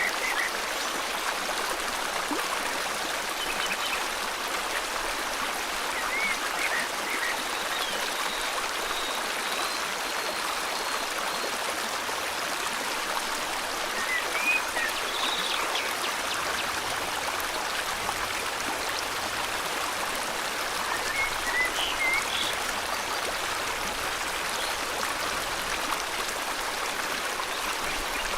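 Steady rushing of river water, an even hiss without pause, with a few short bird chirps scattered through it.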